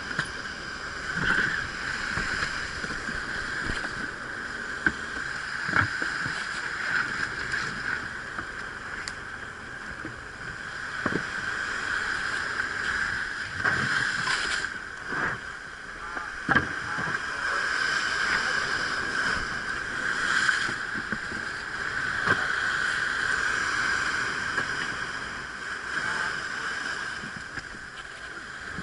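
A small ferry boat's engine running steadily, with occasional sharp knocks scattered through.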